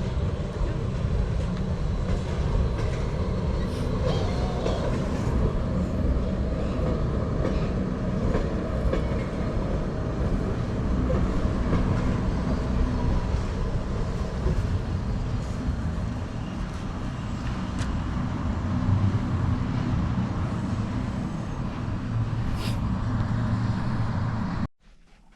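Gornergrat electric rack railway train running, a steady loud rumble with rail clatter; it cuts off suddenly near the end.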